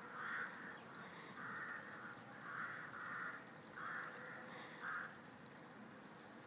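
A bird giving a series of short, harsh calls, about six in the first five seconds, some in quick pairs, then falling quiet.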